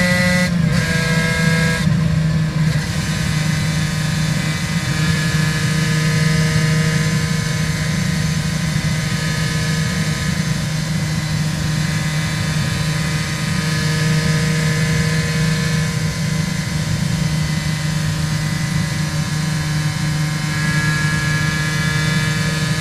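Aprilia RS 250's two-stroke V-twin running through Arrow exhausts while riding. Its pitch drops in two quick steps in the first two seconds, like upshifts, then holds at a steady cruising note and climbs slightly near the end.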